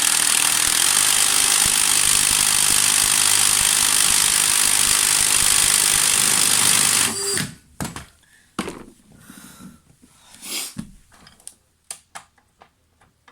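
Drill spinning an unlubricated plastic inline-four engine model kit at about 1500 rpm: a steady, high-pitched mechanical whir that cuts off abruptly about seven seconds in, followed by a few scattered clicks and knocks. The engine has seized solid, which its owner puts down to one of the pistons.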